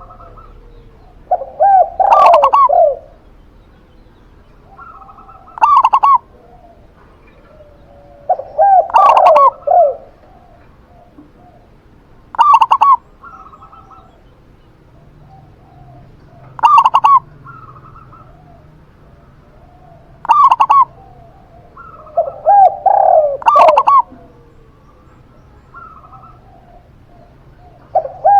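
A zebra dove (perkutut) and a spotted dove (tekukur) cooing in turn. Short single calls come every few seconds, and three times a longer, lower run of several coo notes.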